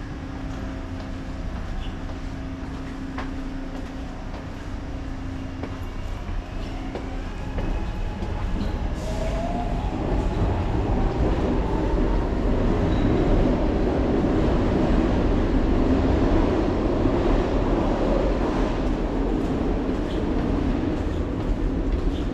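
Subway train running, with a steady low rumble and hum. About nine seconds in a rising whine sets in and the running noise grows louder, as the train picks up speed.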